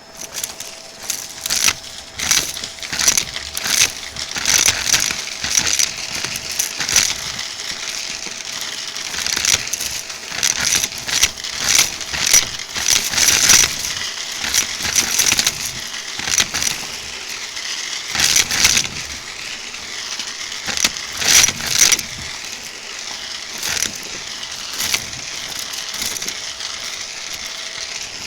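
Vacuum cleaner running with a steady whine while sucking up crunchy debris: rapid crackling and rattling as bits are pulled through, thinning out near the end.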